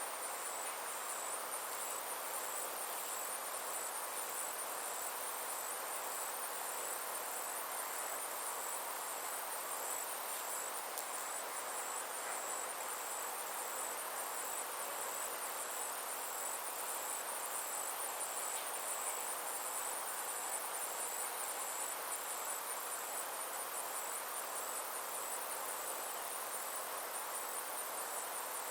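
Summer insects chirring: a steady, high-pitched pulsing trill that never lets up, over a soft constant background hiss.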